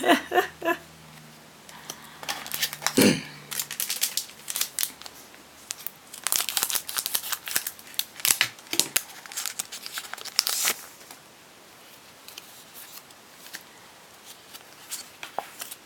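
Foil Pokémon booster pack being opened and crinkled, a dense run of crackling from about two and a half seconds in to just before eleven seconds, then fainter occasional clicks of the pack and cards being handled.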